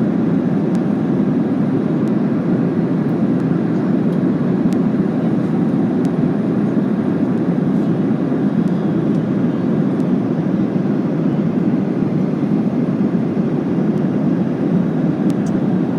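Steady cabin roar inside a Boeing 737-800 during descent: engine and airflow noise, a constant low rushing hum with no change in level.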